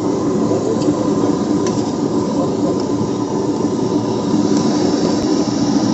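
Steady rumble and hum of a suburban train running at the station platform, with a few faint clicks.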